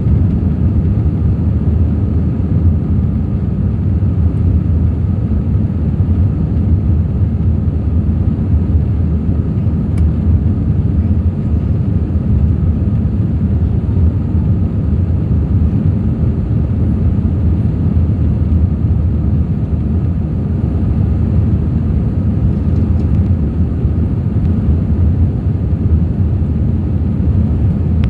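Airbus A321 airliner's jet engines and rushing air, a loud steady low rumble that hardly changes.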